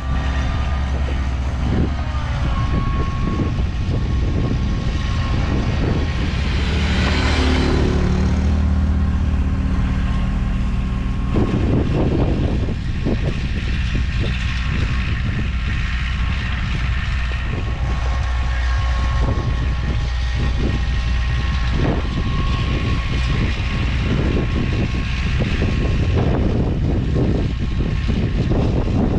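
Engine of a snow-plowing machine running steadily close by, a continuous drone with a faint whine and irregular knocks.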